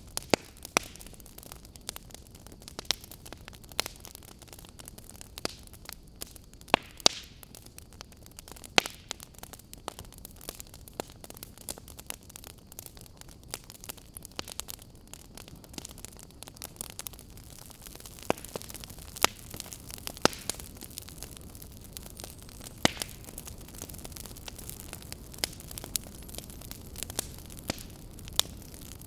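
Wood fire burning: a steady low rush with irregular sharp crackles and pops, a handful of them loud snaps.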